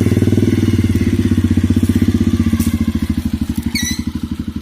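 Motorcycle engine idling with an even, fast pulsing beat. A brief high chirp sounds near the end.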